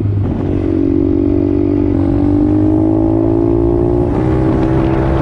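Pit bike engine running under throttle while riding, its pitch climbing slowly, with a change in tone about four seconds in.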